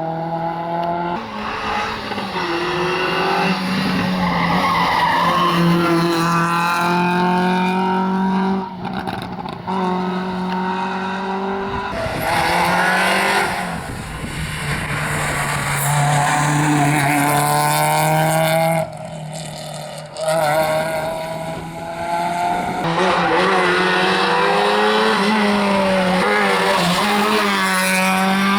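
Rally cars driven hard on a tarmac special stage: engines revving high and dropping back through repeated gear changes and lifts, with tyre squeal.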